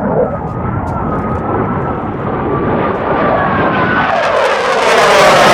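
A Blue Angels jet approaching low. A slowly falling whine rides over rushing jet noise that grows steadily louder and fuller toward the end.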